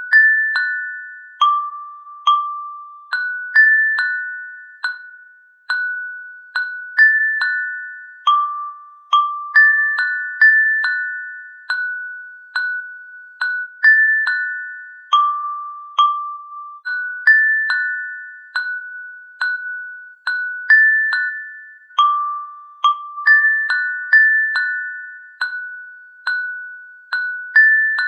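Slow, gentle music of bell-like struck notes from a mallet instrument such as a glockenspiel: a simple tune on a few high notes that keeps repeating. Each note rings out and fades before the next.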